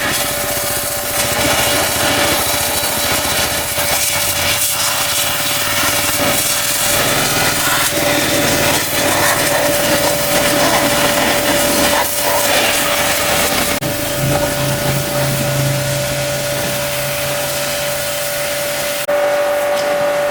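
Pressure washer spraying, a steady hiss of water jet over a constant motor whine, changing abruptly twice in the second half.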